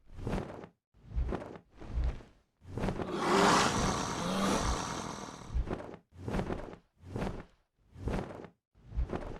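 Footsteps rustling through vegetation at about one step every 0.8 s, each with a low thud. About three seconds in, a louder continuous rushing noise takes over for about three seconds before the steps resume.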